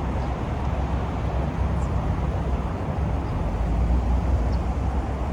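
Steady low rumble of idling car engines, with general traffic noise around them.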